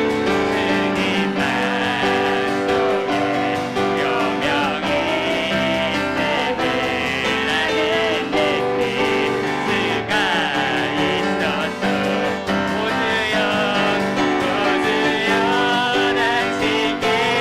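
Worship music: a praise team sings a gospel song over piano accompaniment.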